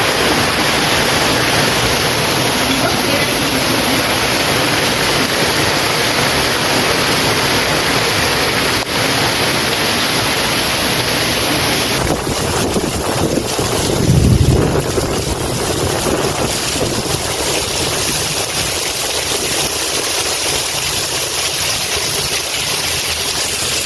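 Heavy rain pouring down in a steady, dense hiss, with a brief low rumble about fourteen seconds in.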